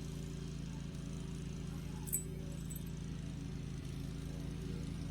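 Lawn mower engine running steadily in the background, a low even hum. A brief light metallic clink about two seconds in.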